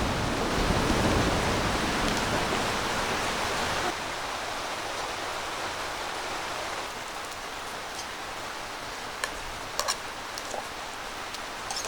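Heavy rain beating steadily on a yurt roof during a thunderstorm, with the low rumble of thunder dying away over the first four seconds. A few light clicks come near the end.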